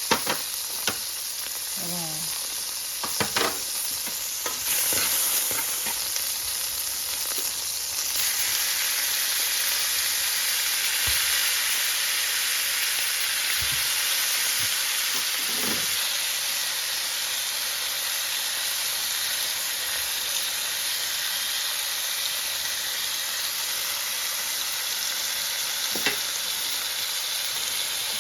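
Food sizzling as it fries in a pan, a steady hiss that grows louder about five and again about eight seconds in. A few sharp clicks of a utensil stirring against the pan.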